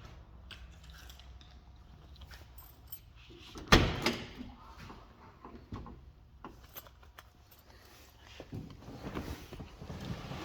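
Quiet handling sounds, rustles and small clicks with a jingle like keys, and one loud sharp thump about four seconds in.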